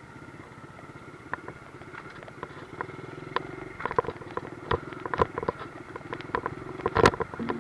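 Small 50cc dirt bike engine idling with a steady low putter, with more and more sharp clicks and knocks over it, the loudest near the end.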